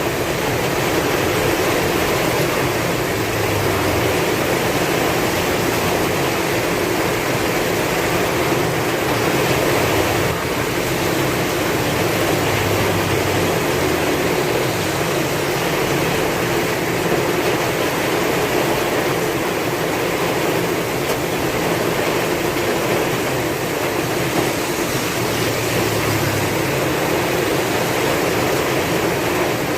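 Heavy rain falling steadily with strong wind, a dense, even wash of noise with soft low swells underneath.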